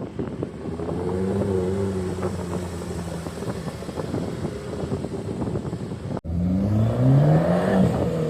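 Car engine revving: one engine note holds from about a second in. Then, after a brief cut-out in the sound about six seconds in, a louder rev climbs in pitch and falls away near the end.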